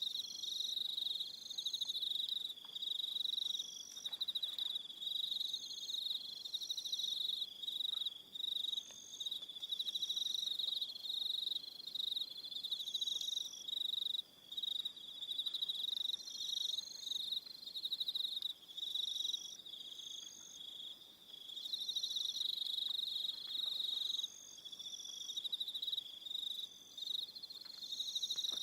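Evening chorus of crickets: a steady, high trill with other crickets chirping in short, repeated phrases above it.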